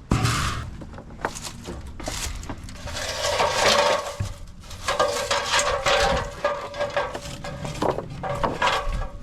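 Metal junk being handled, with irregular clattering and scraping and some ringing metallic screeches.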